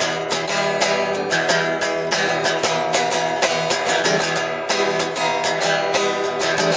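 Guitar strumming chords in a steady rhythm, recorded on a phone.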